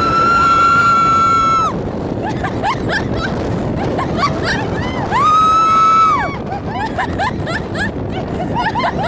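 Roller coaster riders screaming: two long held screams, one at the start and one about five seconds in, among many short shrieks and whoops, over the rumble of the moving train.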